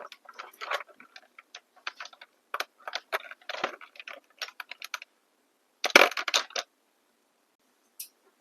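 Nail polish bottles clicking and clinking against each other as they are rummaged through: quick, irregular small clicks, with a louder cluster of clatter about six seconds in, then it stops.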